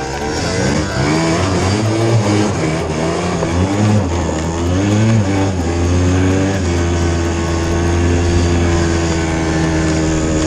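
50cc moped engine revving up and down several times, then held at steady high revs for about four seconds before it drops off near the end.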